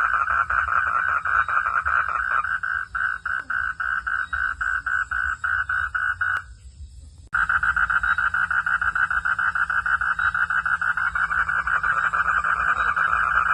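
Chorus of frogs calling in a fast, steady pulsing, about five pulses a second. It thins out a few seconds in, breaks off suddenly for about a second just past the middle, then starts again at full strength.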